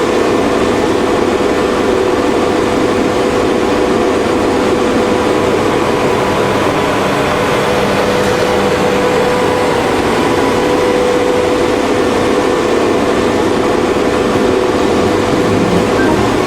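Steam boiler running steadily: a continuous rushing, rumbling noise with a constant hum-like tone through it, unchanging throughout.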